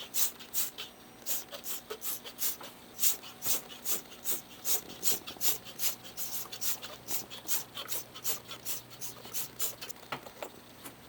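Scrubbing a disassembled washing machine's parts, about three quick rubbing strokes a second that stop near the end.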